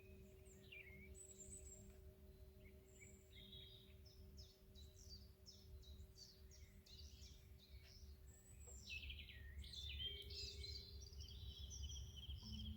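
Faint birdsong, many short chirps and trills, over the lingering hum of a singing bowl ringing out, with a low rumble of wind or ambient noise underneath. The birds grow busier in the second half.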